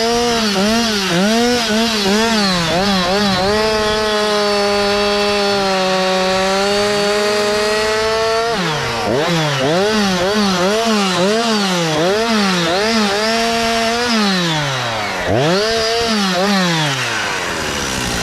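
Two-stroke chainsaw (engine saw) cutting Japanese cedar. The engine revs up and down in quick pulses, holds a steady high speed for about five seconds in the middle, then pulses again and drops in pitch near the end.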